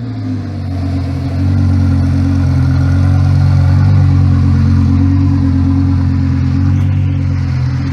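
Sports car engine idling steadily just after being started, growing slightly louder about a second and a half in.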